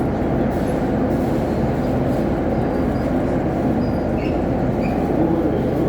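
Suburban electric train running along the line, a steady rumble of wheels on track and running gear, with a few faint brief squeaks about four seconds in.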